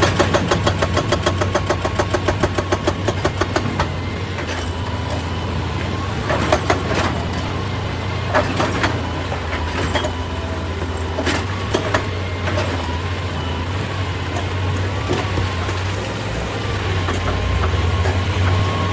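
Excavator's diesel engine running steadily under load, with a fast, even run of knocks for the first four seconds or so, then scattered single knocks and clanks of rock and metal.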